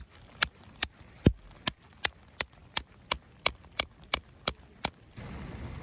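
A regular series of about thirteen sharp knocks, close to three a second, which stops shortly before the end.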